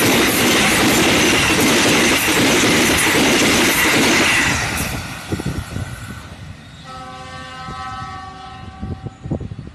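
A train passes close by at speed, a loud rush of wheels and cars on the rails that falls away sharply about halfway through. Near the end a train horn sounds once for about two and a half seconds, a chord of several steady tones.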